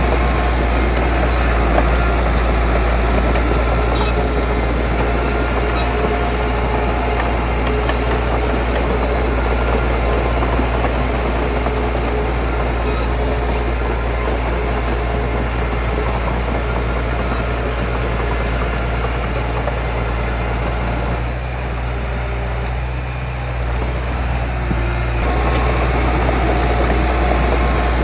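Heavy diesel engine of earthmoving machinery running steadily, with a few brief metallic clicks. The engine note eases a little about 21 seconds in and picks back up about 25 seconds in.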